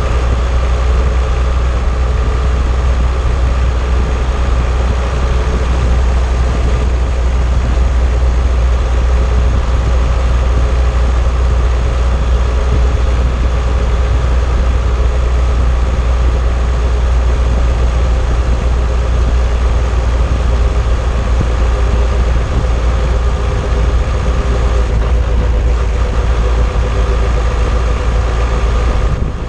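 Steady driving noise of an old car heard from a camera mounted on its suspension's anti-roll bar: a heavy low rumble of road and running noise with a steady hum over it.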